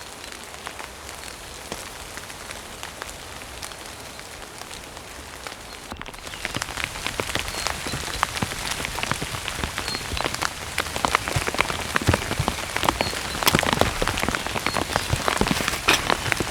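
Heavy rain falling. About six seconds in there is a sudden cut to louder, closer rain, a dense patter of individual drops striking.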